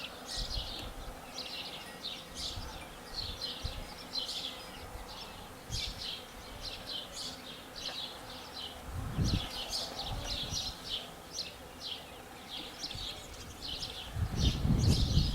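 Honeybees buzzing in a steady, faint hum around an open hive, with a bird's rapid high chirps over it and a couple of low handling thuds.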